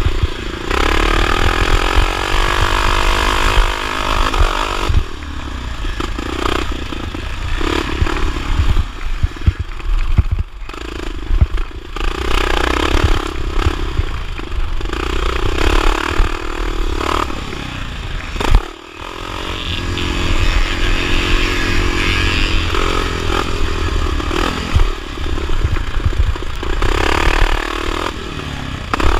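A 1979 Honda XR500's single-cylinder four-stroke engine revving up and falling back over and over under racing load, with clatter and knocks throughout. The sound drops away briefly about two-thirds through, then the engine picks up again.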